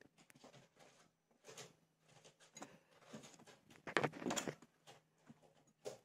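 A small bird moving about: faint rustles and light taps, with a louder flurry of rustling about four seconds in.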